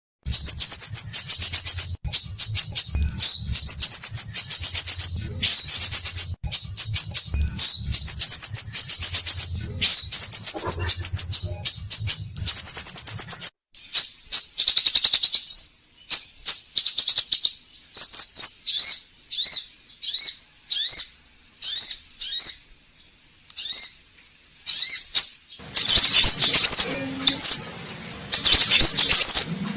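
Scarlet minivet (sepah raja) singing: fast runs of high, sharp chirping notes in quick succession, thinning to separate short phrases in the middle and coming thick again near the end. A low hum sits under the first half and the last few seconds.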